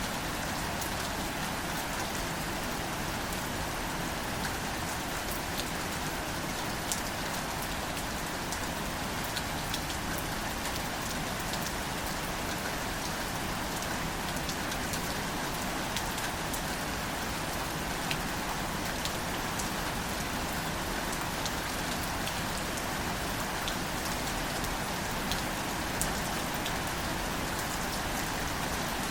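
Steady light rain falling on plants, with a constant hiss and many small, scattered drop ticks.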